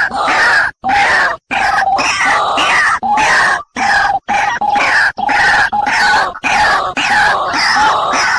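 Harsh, raspy bird calls repeated over and over, loud and dense, broken several times by abrupt cuts to silence.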